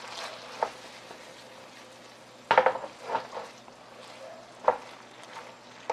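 Gochujang-coated shredded dried squid sizzling in a frying pan over a gas burner as the sauce cooks down, stirred with a wooden spatula that scrapes and knocks against the pan several times, the loudest about halfway through.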